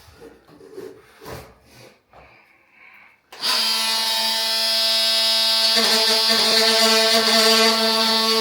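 Light scraping and knocking of vinyl flooring planks being handled. About three and a half seconds in, a power tool's motor starts abruptly and runs at a loud, steady whine.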